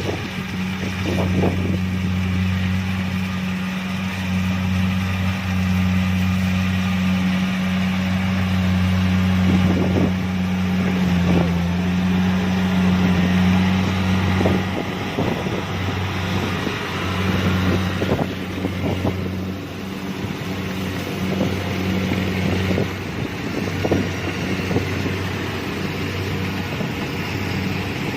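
Kubota DC-70 Plus combine harvester running steadily while harvesting rice: a constant engine and threshing drone with occasional short knocks and rattles.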